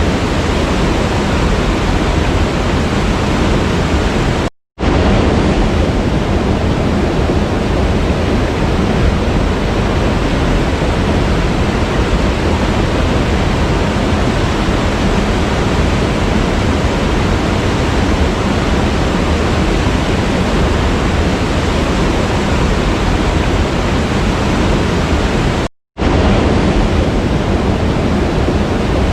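Waterfall: a steady, loud rush of falling water. Twice, about five seconds in and again near the end, it drops to silence for a split second.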